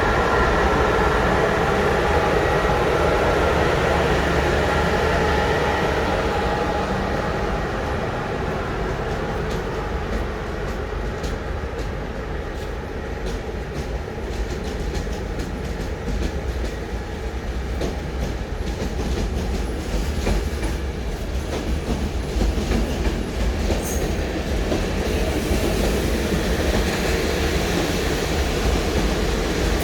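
Train moving through a station: a steady drone at first, then wheels clicking over rail joints through the middle of the stretch.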